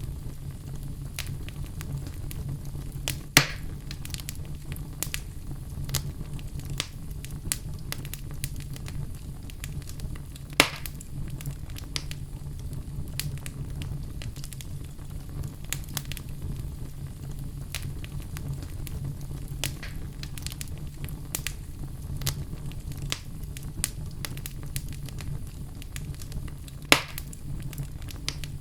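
Wood fire of burning logs crackling, with many small ticks over a low steady rumble and three loud single pops spread through.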